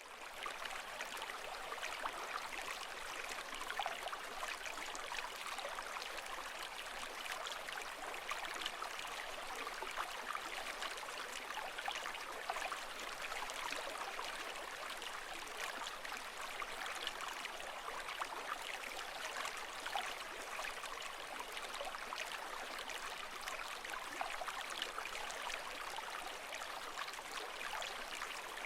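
Running water, a steady rushing and trickling with a fine crackle that holds at one level without rising or falling.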